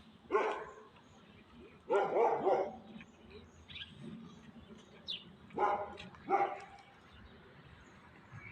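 Four calls from a domestic animal, each with a clear pitch. The second, about two seconds in, is the longest, and the last two come close together around six seconds.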